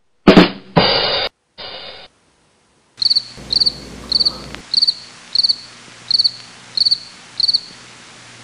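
A loud, short noisy crash in the first second and a quieter one after it, then crickets chirping in short pulsed chirps, about two a second, over a steady hiss. The crickets are the comic sound effect for a joke that falls flat.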